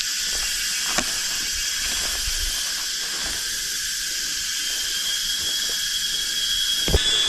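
Steady high-pitched chorus of forest insects, with one shrill tone growing louder near the end. Two sharp clicks, about a second in and near the end.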